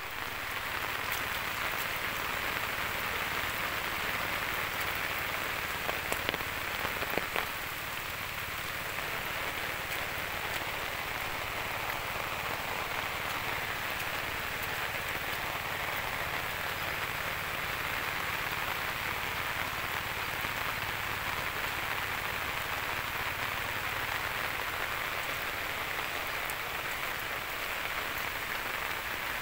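Steady rain falling on wet ground, puddles and leaves: an even hiss throughout, with a few sharp taps about six to seven seconds in.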